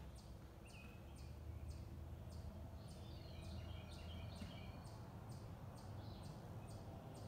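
Faint outdoor birdsong: short high chirps repeat about twice a second, with a brief twittering bird phrase near the middle, over a low steady rumble.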